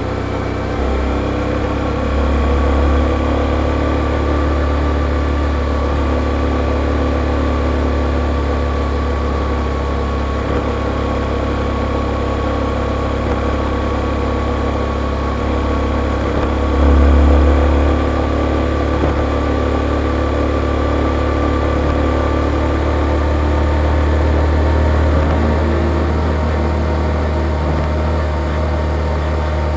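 Yamaha XSR155's single-cylinder engine running through its stock exhaust, heard from the rider's seat, steady, with a brief swell in loudness about seventeen seconds in.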